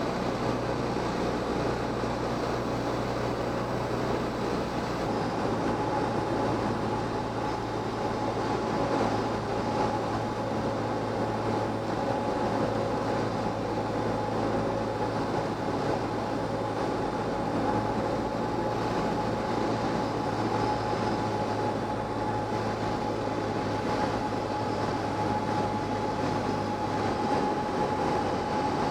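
Cessna 172M's Lycoming O-320 four-cylinder engine and propeller running at reduced power on final approach, a steady drone heard inside the cabin. The low hum changes about five seconds in and drops away near the end.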